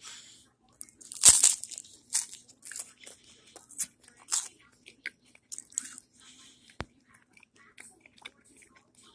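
Close-up crunching of a bite of puffed-rice cake spread with peanut butter and jelly, then chewing. The loudest crunch comes about a second in, and smaller crunches follow every half second or so, thinning out over the next five seconds.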